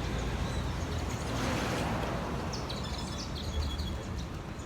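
Street ambience under a steady low rumble, with a passing swell of hiss about a second and a half in. A bird gives a quick run of short high chirps about three seconds in.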